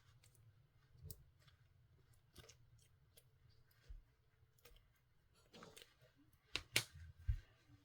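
Clear slime being handled, giving faint, scattered small sticky clicks and pops, with a cluster of louder ones near the end.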